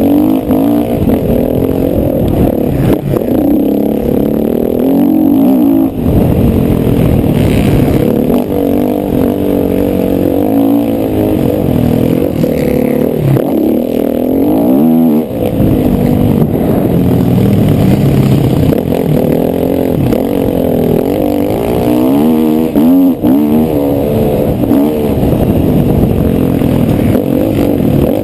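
Motocross bike engine revving hard and continuously, its pitch climbing and falling again and again as the throttle is worked, with brief drops about six, fifteen and twenty-three seconds in.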